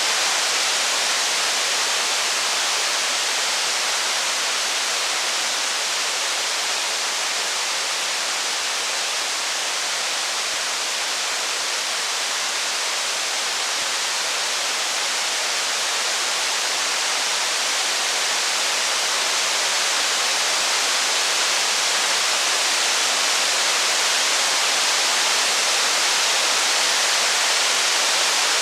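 Steady, heavy rain: a dense, unbroken hiss that holds an even level, with little low rumble and no distinct crackles or thunder.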